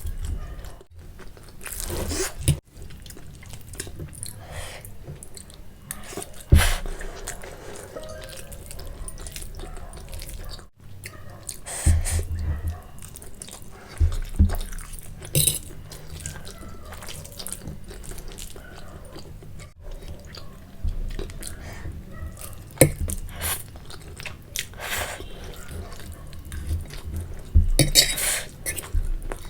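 Close-up wet chewing and mouth sounds of someone eating spicy instant noodles and boiled egg, with irregular sharp smacks and slurps now and then.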